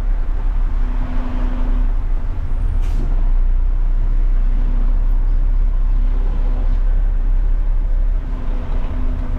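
Garbage truck engine running with a steady low rumble, with one short hiss about three seconds in.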